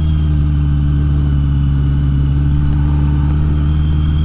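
Honda CBR650R's inline-four engine running at a steady low engine speed, with no revving. A faint, steady high whine sits above it.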